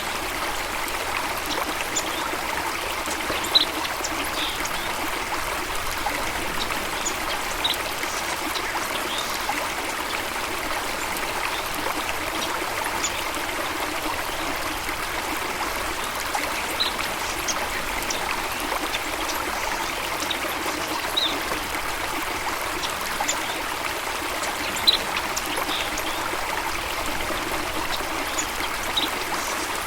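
Steady flowing water, a stream or small waterfall running, with short high bird chirps scattered through it.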